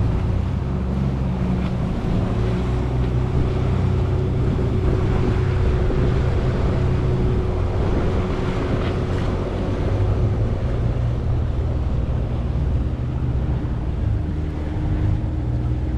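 A small boat's motor running steadily, with wind and water noise on the microphone.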